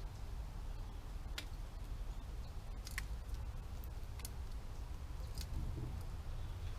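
Wind rumbling on a camera's microphone, with four short, sharp clicks spread through.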